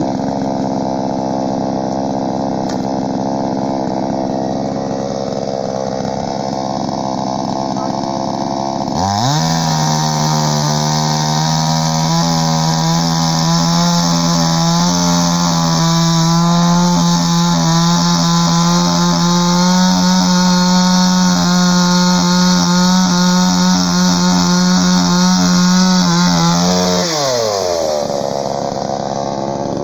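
Chainsaw engine running at idle, then revved up to full speed about nine seconds in and held there for about eighteen seconds before dropping back to idle.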